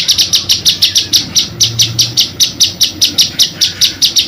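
A small songbird singing a long, rapid rolling trill: one note repeated evenly about seven times a second without a break.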